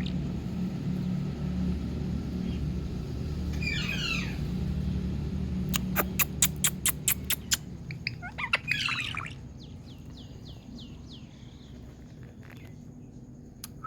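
Indian green parrot calling: a raspy gliding call, a quick run of sharp clicks, another raspy call, then a run of short falling chirps. A steady low hum underlies the first two-thirds.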